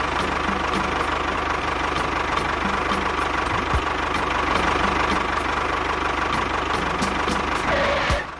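Small engine of a DIY mini tractor running steadily with a fast, even rattle, then cutting off suddenly just before the end.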